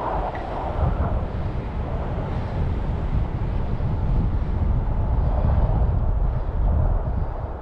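Strong mountain wind buffeting the microphone: a steady, gusting low rumble.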